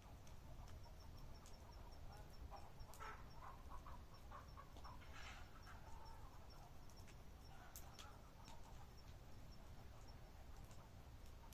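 Faint night ambience: scattered sharp crackles, a fast even high ticking that runs for a few seconds twice, and soft clucking calls, fowl-like, near the middle.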